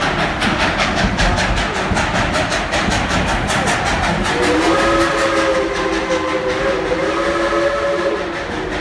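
Steam locomotive working with rapid, even exhaust chuffs, then its chime whistle blowing a long, steady multi-note blast from about four seconds in, with a brief break near the end.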